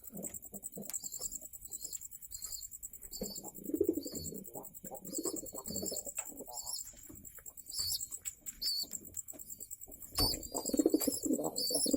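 Domestic pigeons cooing in low, rolling bouts that grow louder near the end, with short high chirps scattered over them and a faint steady high whine behind.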